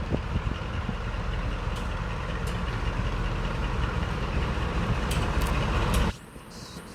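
Large diesel locomotive engine running with a steady low rumble, growing slightly louder, cut off abruptly about six seconds in.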